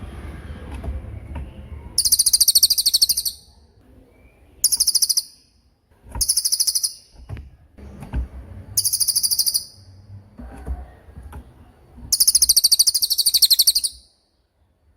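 Velvet-fronted nuthatch (cililin) singing its rapid 'tembakan' trill: five bursts of very high, fast-repeated notes, each lasting from about half a second to nearly two seconds, separated by short pauses.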